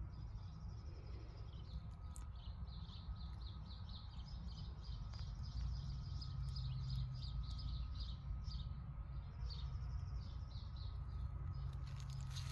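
Small birds chirping in a rapid, continuous stream of short high notes over a low steady rumble.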